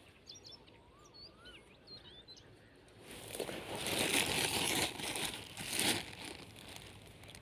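Faint birds chirping for the first three seconds, then a loud crinkling rustle lasting about three seconds, swelling twice, as dry vegetation or material is handled or pushed through.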